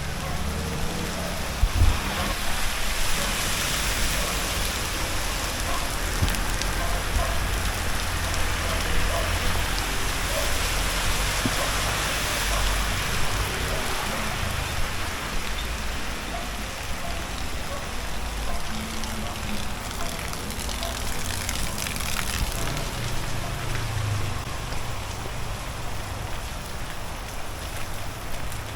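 Steady rain falling, an even hiss throughout, over a low rumble. A single sharp knock about two seconds in.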